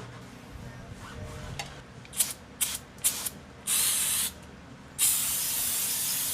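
Aerosol can spraying: three quick short squirts, then a burst of about half a second, then a longer burst of more than a second.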